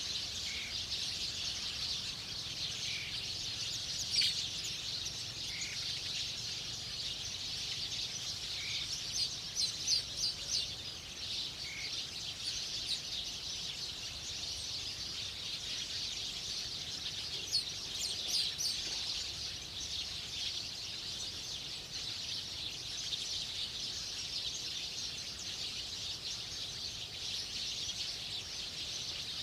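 Wild birds chirping over a steady high-pitched hiss. A short call repeats about every two seconds in the first half, and clusters of quick chirps come a few times.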